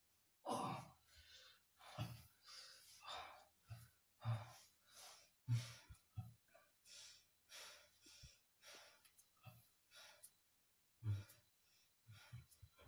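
A person breathing out hard in a string of short, breathy sighs and puffs, about one every half second to a second.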